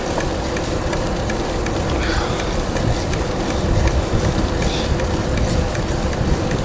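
Bicycle riding noise on a paved road with wind on the microphone: a steady rumble with a faint regular ticking.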